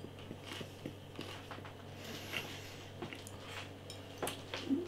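A person chewing toast topped with chocolate sprinkles, a string of faint, irregular crunchy clicks from the mouth, a little louder near the end.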